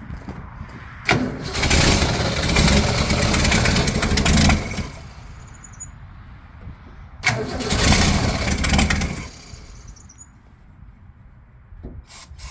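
1965 Ford Mustang engine being started twice: a click, then about three and a half seconds of cranking and firing, and about two seconds more a few seconds later, each attempt stopping without settling into an idle. The engine is hard to keep running while the owner works around an unsolved ignition problem.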